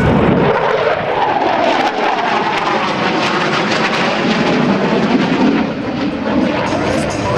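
Loud, steady jet noise from an F-15E Strike Eagle's twin F100 turbofan engines as the jet flies its display, swelling and easing slightly.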